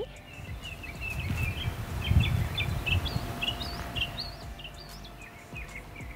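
Birds chirping: a quick run of short rising and falling notes, over a low rumble of wind on the microphone that is strongest in the first three seconds.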